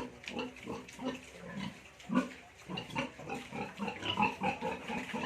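Domestic pigs grunting in a run of short, irregular grunts, with one sharper, louder call about two seconds in.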